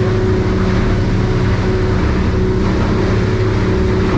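Yamaha F300 four-stroke outboard running steadily with the boat under way: an even drone at constant pitch.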